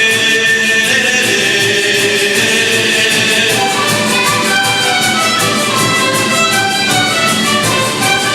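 A youth orchestra of Latin American instruments plays a folk song with a steady beat. Held sung notes at the start give way, about halfway through, to an instrumental passage of short, quick notes.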